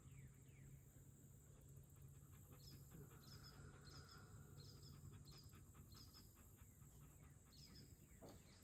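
Near silence: faint outdoor ambience with a steady low hum and, from a few seconds in, a run of faint short high chirps about two a second.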